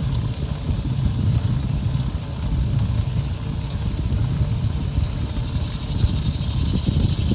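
Wind buffeting the microphone during a bicycle ride: an uneven low rumble, with a rising hiss joining about five seconds in.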